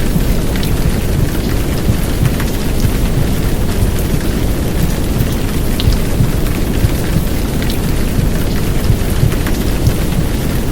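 Heavy downpour rain, a steady hiss with scattered drop ticks, layered over a deep, constant low rumble of womb-style noise.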